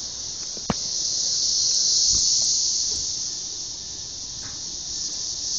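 Chorus of Brood XIX periodical cicadas: a dense, shrill, steady drone that slowly swells and fades. There is one sharp tap about a second in.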